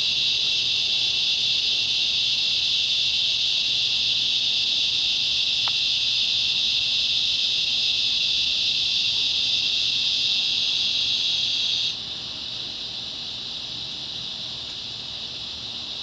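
A loud chorus of cicadas making a steady, high, even buzz. About three-quarters of the way through it drops suddenly to a quieter level and carries on.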